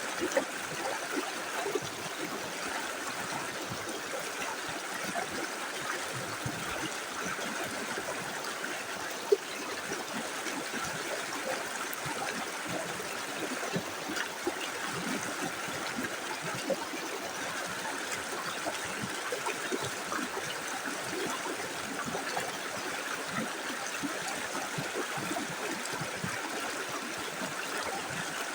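Small river flowing over stones: a steady rush of running water with light gurgling and splashing, and one brief sharp click about nine seconds in.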